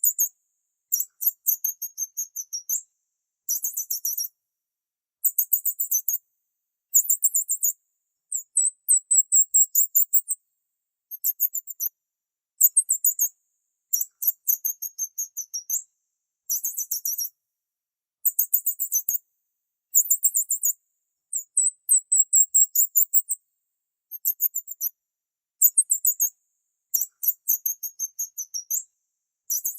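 Small bird chirping in very high-pitched phrases of rapid notes, each phrase about a second long and repeated every second or two with short silent gaps between.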